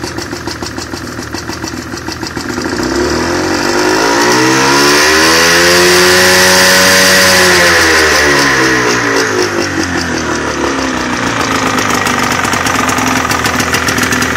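Johnson 48 two-stroke outboard motor running just after starting. It revs up from about three seconds in, holds high for a few seconds, then eases back down to a steady idle.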